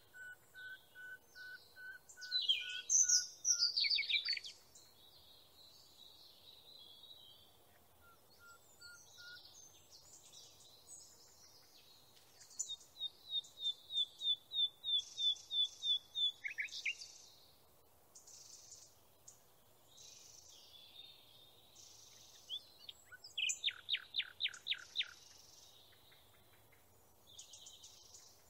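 Songbirds singing in separate phrases with quiet gaps between: series of repeated whistled notes, fast trills and quick downward slurs. The loudest phrases come about a third of the way in and again a little past the middle.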